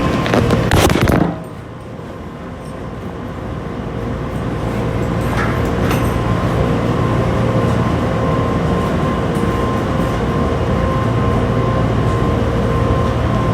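Washing machine running: a loud rushing noise cuts off about a second in, then a steady machine hum with a faint tone in it that slowly grows louder.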